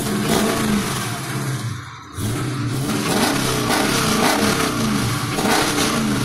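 2015 Dodge Challenger R/T's 5.7-litre Hemi V8 revving through Kooks long-tube headers and a cat-deleted Corsa Extreme exhaust. The revs rise sharply at the start, dip about two seconds in, then climb again and hold.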